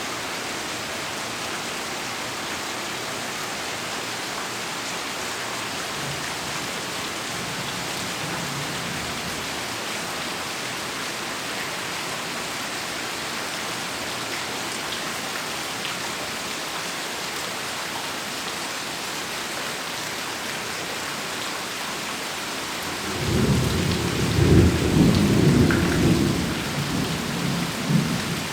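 Steady heavy rain pouring down, then about 23 seconds in a loud clap of thunder breaks in and rumbles on to the end, loudest in its first few seconds.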